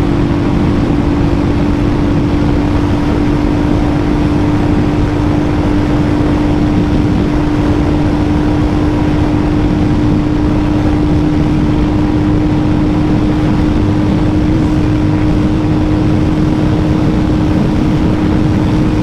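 Royal Enfield Hunter 350's single-cylinder engine running hard at a steady high pitch in fifth gear at full throttle, at a little over 120 km/h, under loud wind rush.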